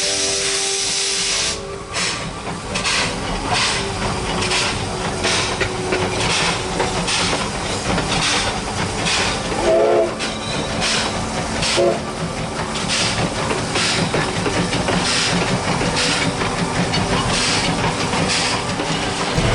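Steam locomotive C10 8 under way: exhaust chuffs beat about two a second over steady steam hiss. A short whistle blast sounds about halfway through.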